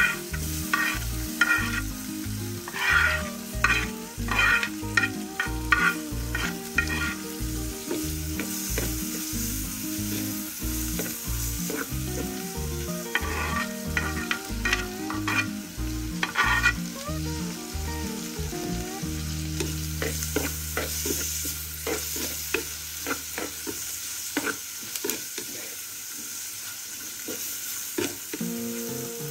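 Chopped onion, green chilli and pandan leaves sizzling and frying in hot coconut oil in a clay pot over a wood fire. A wooden spoon scrapes them off a clay plate into the pot and stirs them, in bursts of short strokes. Soft background music runs under most of it and fades out about two-thirds through, leaving the sizzle and crackle of the frying.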